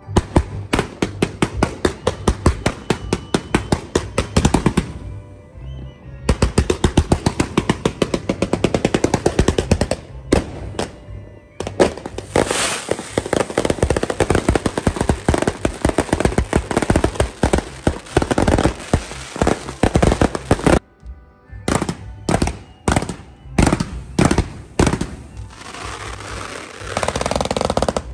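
Single-shot firework tubes fired in rapid succession, several sharp bangs a second in long runs, with a short break about five seconds in and the shots growing sparser and more irregular over the last several seconds.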